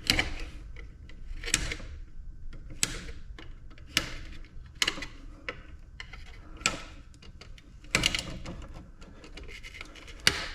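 Sharp metallic clicks and clanks, some ringing briefly, coming irregularly every second or so as a small mini ice maker is pulled apart by hand for scrap.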